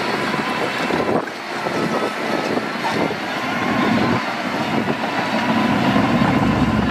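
Heavy diesel construction machinery working, its engine running continuously. The engine swells near the end, with more low rumble.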